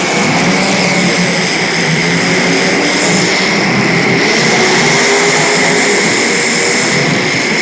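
Several race car engines running at speed during a race. Their pitch rises and falls as the cars pass and change throttle, over a steady high whine.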